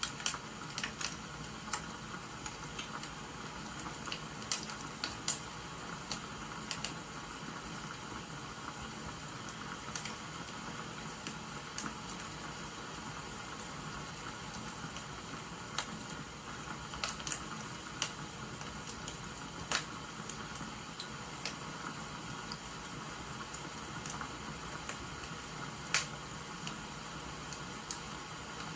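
Wood fire crackling, with irregular sharp pops over a steady hiss of rain.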